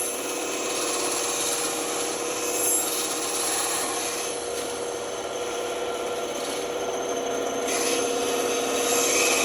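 Band saw running and cutting through wood: a continuous rasping hiss of the blade in the cut over a steady motor hum, changing in tone about eight seconds in.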